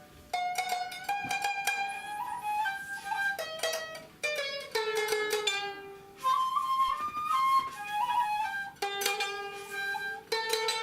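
Traditional Japanese ensemble music: a shakuhachi plays a held, slightly bending melody over a plucked string instrument striking notes that ring and decay.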